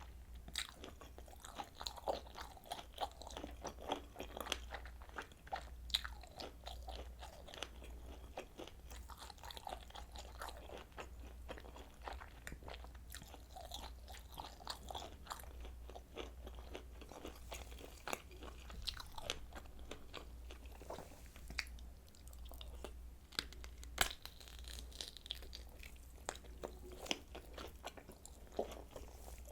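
Close-miked eating: kielbasa sausage being bitten and chewed, with irregular wet crunching, snapping casing and mouth clicks throughout. A steady low hum sits underneath.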